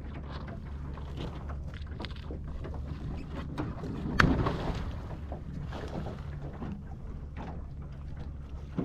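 Wind buffeting the microphone over water washing against a small sailing dinghy, with a sharp knock about four seconds in followed by a brief louder surge of noise.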